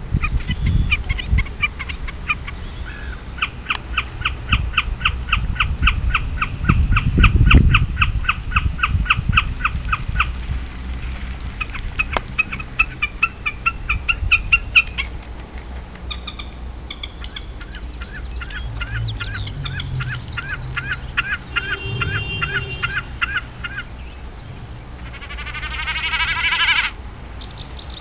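Wild birds calling: a long run of fast repeated high notes, about ten a second, then other shorter chirp series, and a louder run of sweeping notes near the end, over a low rumble.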